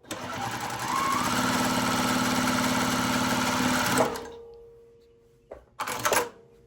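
Juki TL-15 semi-industrial straight-stitch sewing machine running a test seam at its longest stitch length of 6: it speeds up about a second in, runs steadily for a few seconds, then stops. A brief clatter follows near the end.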